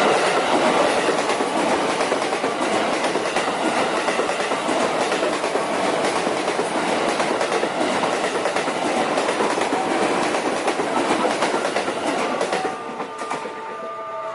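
Long train passing close at speed, its wheels clattering over the rail joints in a dense, steady rush. The noise drops off sharply near the end.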